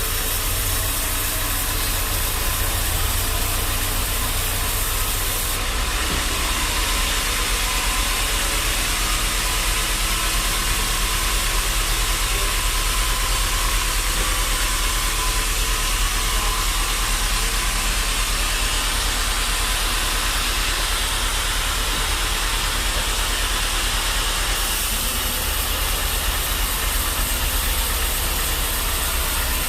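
Bandsaw sawmill running: a steady low machine hum under a hissing noise, which changes in tone about six seconds in and again near the end.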